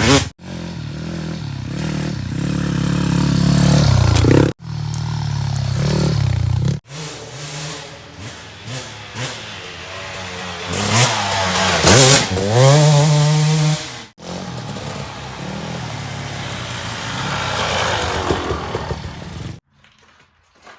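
Dirt bike engines running and revving on the trail, the pitch rising and falling with the throttle, in several short clips that cut off abruptly; the sound drops away near the end.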